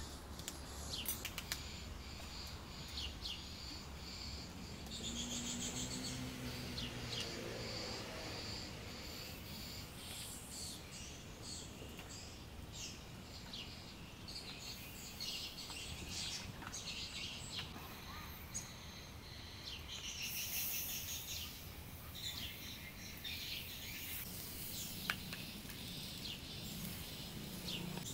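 Small birds chirping and tweeting again and again over a steady outdoor hiss, with a few light clicks.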